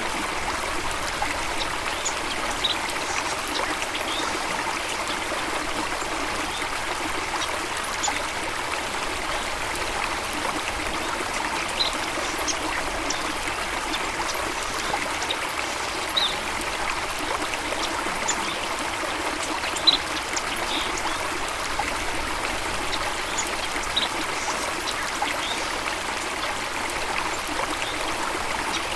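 Stream water running and trickling steadily, with brief faint high-pitched chirps or ticks every few seconds.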